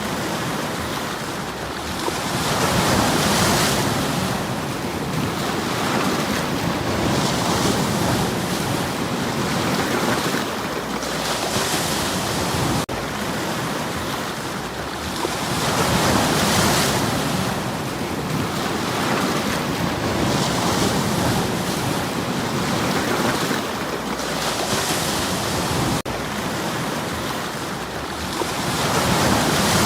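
Sea waves breaking on a stony shore. Each wave swells into a rushing wash about every four to five seconds, over a continuous rumble of surf.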